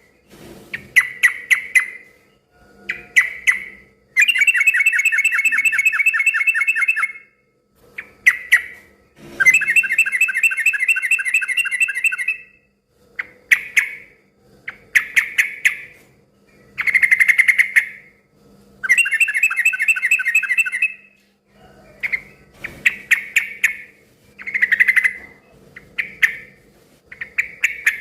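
Sooty-headed bulbul (trucukan) calling noisily: short bubbly phrases again and again, broken by three long rapid chattering runs of a few seconds each.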